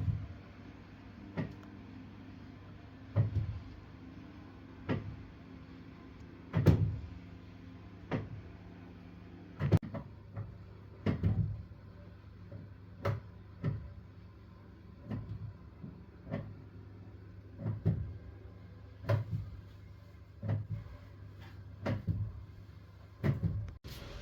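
Central-heating boiler banging: sharp knocks every second or two, coming closer together near the end, over a steady low hum. The boiler is overheating with no circulation, flow pipe hot and return cold, because the gate valve on the return pipe was closed.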